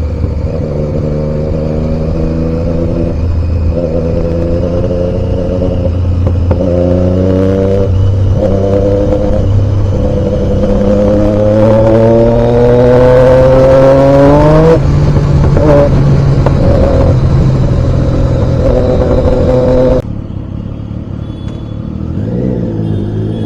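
Triumph Daytona 675 inline-three engine pulling up through the gears, its pitch climbing in several steps. A long rising rev ends in a sharp drop about fifteen seconds in, then the engine runs steadily. The sound becomes suddenly quieter near the end.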